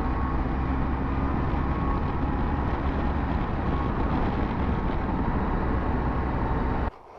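Motorcycle under way at road speed: steady engine and wind noise, which drops away suddenly near the end.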